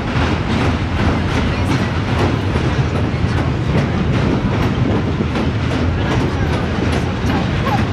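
Passenger train rolling along at a steady pace, heard from an open-sided car: a continuous rumble and rush with repeated clicking of the wheels over the rails.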